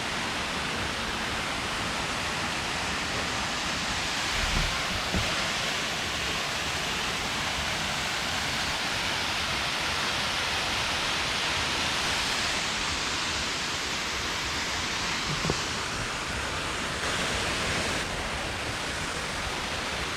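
Boyana waterfall's water rushing and splashing in a steady, even roar of noise, with a couple of brief low bumps.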